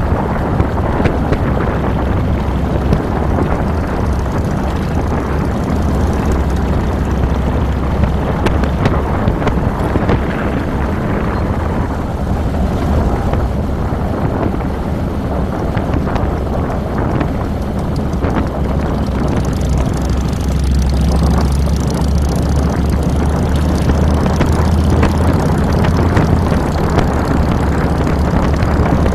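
2007 Harley-Davidson Fat Boy's V-twin engine running while the motorcycle is ridden, heard close from the handlebars under a steady noisy rush. It gets a little louder past the middle.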